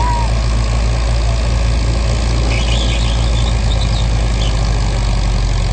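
Farm tractor engine running loud and steady at constant speed, a deep low note, pulling at a tractor pull.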